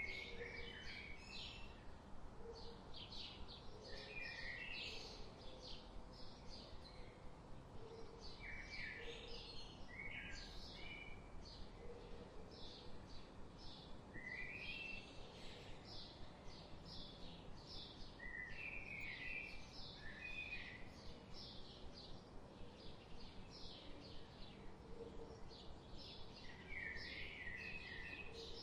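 Forest birds chirping and singing: a constant run of short, high chirps, with a lower phrase of a few quick stepped notes returning every few seconds.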